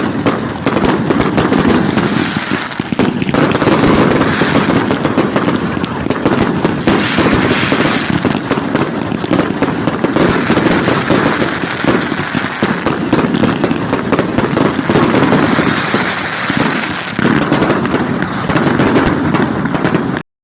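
Bonfire night fireworks going off without a break: a dense, rapid crackle of many overlapping bangs and cracks that cuts off suddenly near the end.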